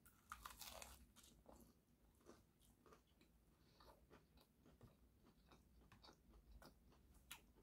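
Faint biting and chewing of a toasted, Parmesan-crusted cheeseburger melt sandwich: a bite in the first second, then soft, scattered mouth clicks as it is chewed.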